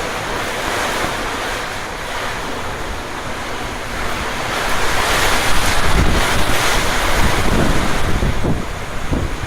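Storm wind blowing hard, with gusts buffeting the microphone; it grows louder and gustier about halfway through.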